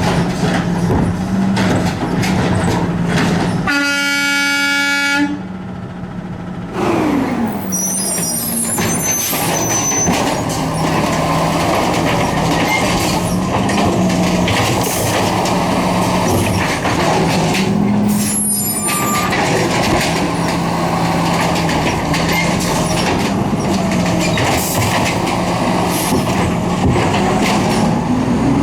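City garbage truck running with a steady engine hum. A single horn blast about four seconds in lasts over a second. Brief high-pitched squeals follow later, and the pitch rises near the end.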